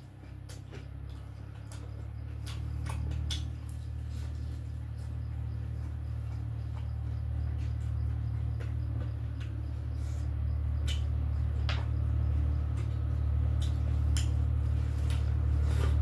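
Eating sounds from chewing fried chicken: scattered short clicks and wet smacks, a few every couple of seconds. Under them runs a steady low hum that slowly grows louder.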